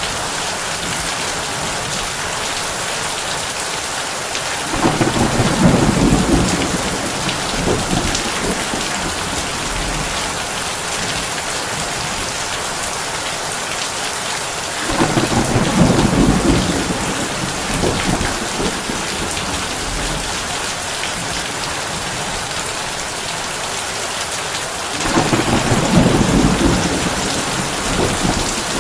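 Heavy rain pattering steadily on a tin roof, with three low rolls of thunder about ten seconds apart, each lasting a couple of seconds.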